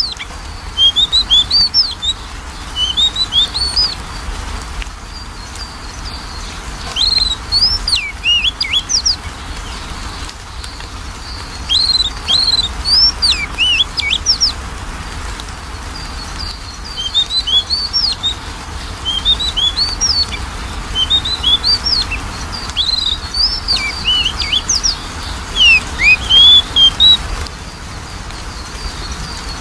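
Oriental magpie-robin (kacer) song: phrases of quick, sweeping whistled notes and chirps come in bursts, with short pauses between them, over a steady low hum.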